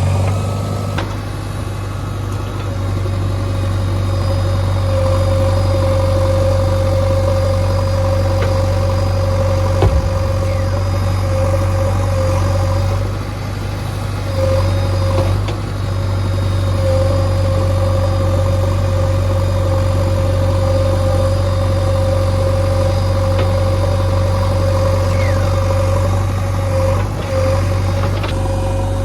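Diesel engine of a JCB 3DX backhoe loader running steadily under work, with a steady whine over it. A sharp click sounds about ten seconds in.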